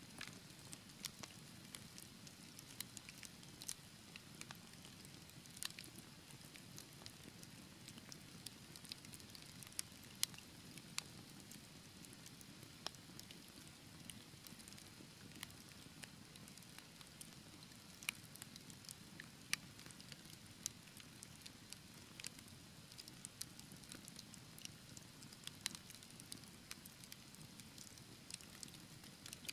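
Wood fire burning in a fireplace: a low, steady rumble of flames with irregular sharp crackles and pops, some much louder than others.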